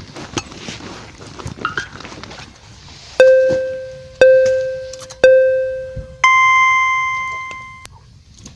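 A few seconds of light clicks and rustling, then three identical beeping tones about a second apart and a fourth tone an octave higher held longer, a race-start countdown pattern.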